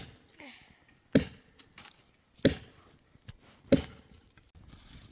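Axe chopping firewood: four sharp blows at an even pace, about one every second and a quarter.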